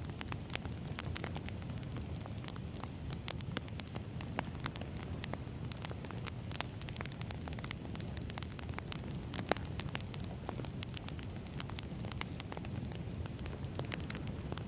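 Wood fire burning, with a steady low rumble of flame and frequent irregular crackles and pops of burning logs.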